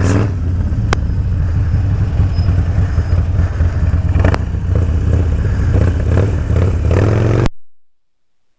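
Motorcycle engine running steadily, with two sharp clicks, one about a second in and one about four seconds in. The sound cuts off abruptly near the end.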